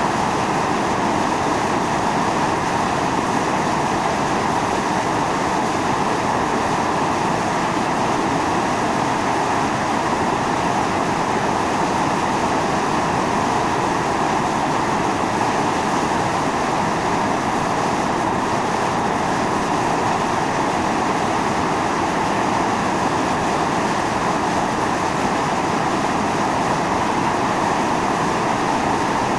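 Volcanic fumarole venting: a steady, unbroken roar of steam and gas jetting from the vent, with no change in strength.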